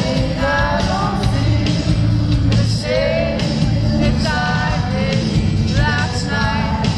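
A male lead singer singing a slow R&B pop song live over an amplified band with heavy bass. The vocal lines waver and bend in melodic runs, phrase after phrase.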